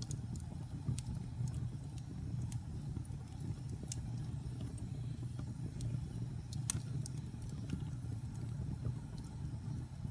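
Wood fire burning in a fireplace: a steady low rumble with irregular sharp crackles and pops, the loudest about two-thirds of the way through.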